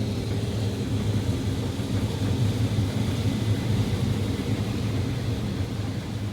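Case IH 8250 Axial-Flow combine running steadily under load while harvesting corn: a steady low-pitched engine and machinery hum.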